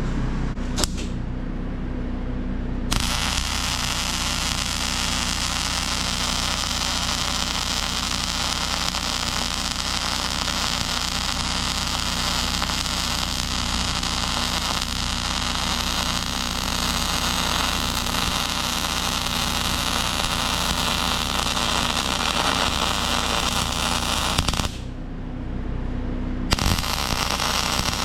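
Electric welding arc crackling steadily as a weld pass is run, starting about three seconds in, breaking off for a couple of seconds near the end and then striking up again. A steady low hum runs underneath.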